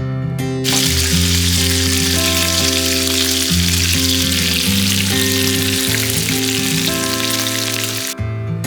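Breakfast food frying loudly in a hot pan, a steady sizzle that starts about half a second in and cuts off suddenly near the end, over acoustic guitar background music.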